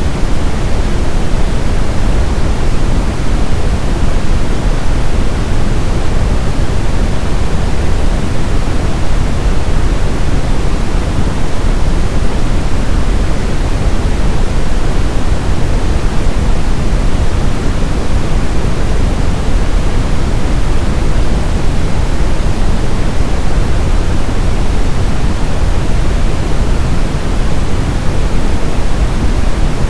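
Steady, continuous brown noise: an even, unchanging hiss-and-rumble with most of its weight in the low end, fading toward the highs.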